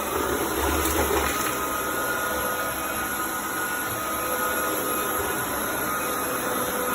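Roborock Dyad Pro wet and dry vacuum running steadily, with a steady motor whine over its suction noise, slightly louder in the first second.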